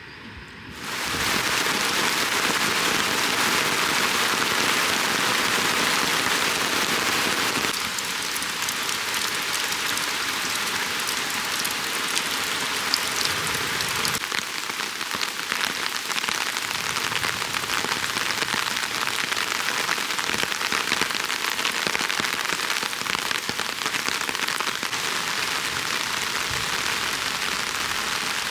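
Heavy rain pouring down in a dense, steady hiss that starts abruptly about a second in.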